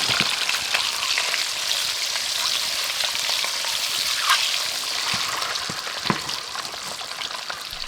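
Food frying in hot oil in a cooking pan, a steady sizzling hiss with a few light clicks, easing off slightly toward the end.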